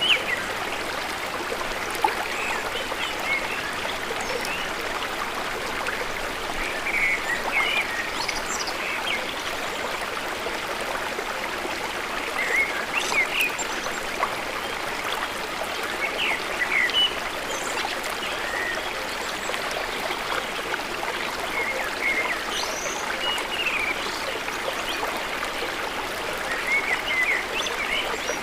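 Steady rush of river water running fast, with short high notes scattered through it.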